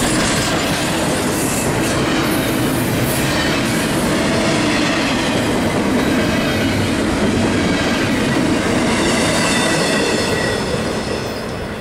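Double-stack intermodal container well cars of a long freight train rolling slowly past: a steady rumble and clatter of wheels over the rails, with a faint thin squeal of wheels. It eases off a little near the end as the last car goes by.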